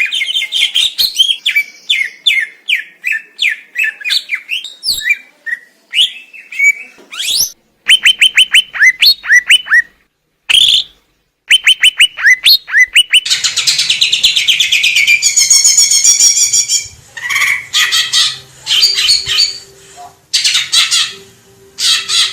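Green leafbird (cucak ijo) singing: fast runs of sharp, downward-sweeping whistled notes and trills, turning to dense, rapid chattering about halfway through. The song cuts off abruptly twice, for under a second each time, between recordings.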